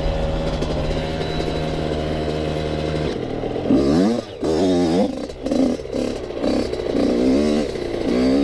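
Yamaha YZ85 two-stroke single-cylinder dirt bike engine running at a steady pitch for about three seconds, then revved up and down over and over, about once a second, under throttle.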